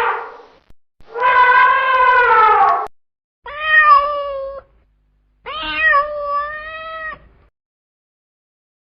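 Domestic cat meowing: after the end of one call, three separate drawn-out meows, the first long and falling in pitch, the other two shorter with a bend in pitch.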